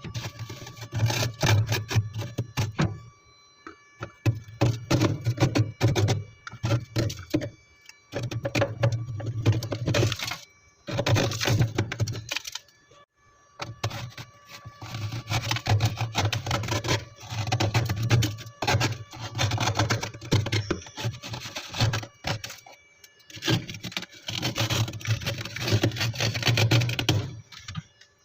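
Freezer frost ice being scraped and crunched in repeated rough bursts, each lasting about a second or two, with short pauses between them.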